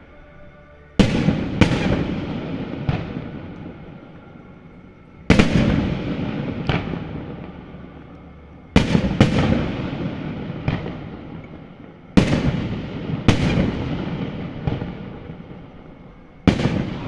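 Aerial fireworks shells bursting, mostly in quick groups of two or three every three to four seconds. Each sharp bang is followed by a long, fading rumble and crackle.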